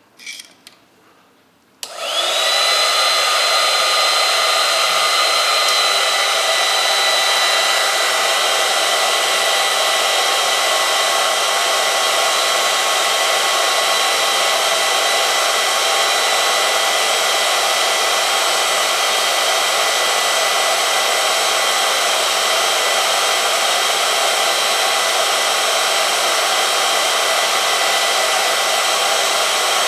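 A few clicks, then about two seconds in the electric motor of an oil-film strength testing machine starts, glides briefly up in pitch and runs with a steady, even whine.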